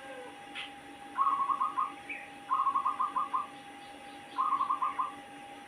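Zebra dove (perkutut) cooing in three bursts of six or seven rapid staccato notes each, an unusual-sounding song from a recently wild-caught bird that has begun singing freely.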